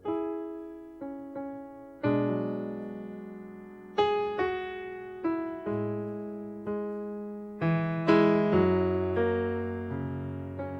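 Solo piano playing a slow, gentle introduction: chords and single notes struck every second or so, each ringing out and fading.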